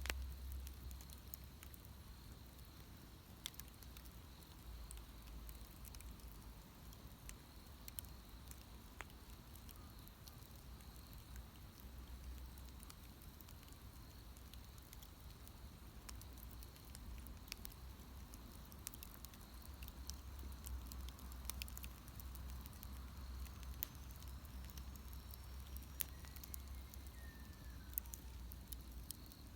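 Wood bonfire burning, with scattered sharp crackles and pops over a low, steady rumble.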